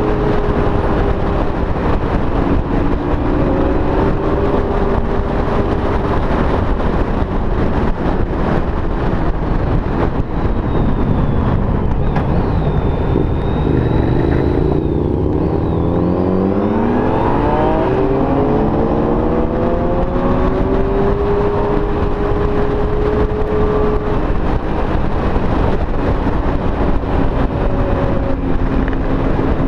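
Motorcycles at road speed, with a constant wind rush over the microphone and an engine note underneath. About halfway through, the engine pitch sags and then climbs steeply through the revs as the bikes accelerate hard, before settling back to a steady cruise.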